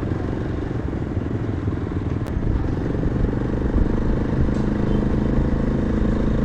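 Yezdi motorcycle engine running as the bike rides along, with road and wind noise; the engine gets a little louder a few seconds in.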